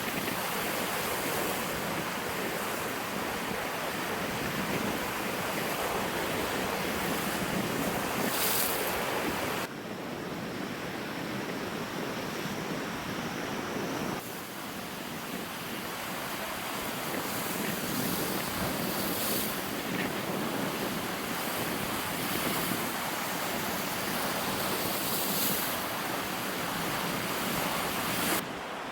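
Lake Huron waves washing onto the shore, with wind buffeting the microphone. The sound drops abruptly about ten seconds in and again about fourteen seconds in.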